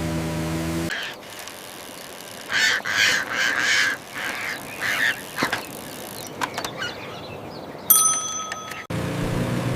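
Background music briefly, then a run of short, loud squawk-like calls, scattered clicks, and a brief bell-like ring about eight seconds in before the music returns.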